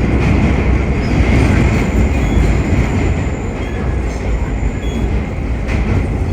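Vintage R1-9 subway cars running at speed on the express track: a loud, steady rumble of wheels and running gear, with a few faint, brief high-pitched wheel squeals.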